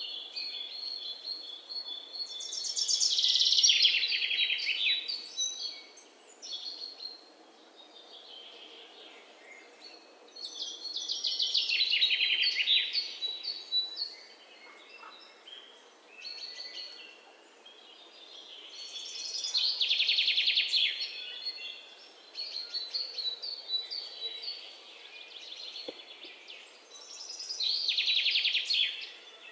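Songbirds singing: four loud falling song phrases about eight seconds apart, with softer chirps between them.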